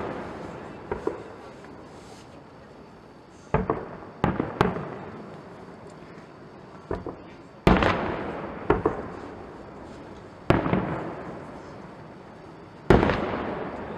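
Fireworks display: a string of sharp bangs a second or a few seconds apart, each trailing off in a long echoing rumble, with a few smaller crackles between them.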